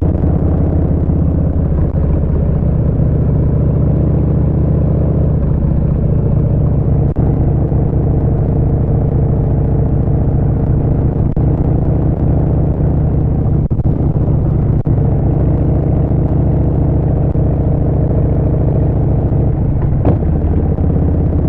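Harley-Davidson Street Bob 114's Milwaukee-Eight V-twin running steadily through a Vance & Hines Short Shots full exhaust system.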